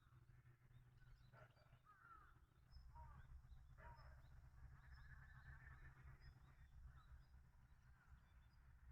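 Near silence: faint outdoor ambience with scattered bird calls over a low steady hum.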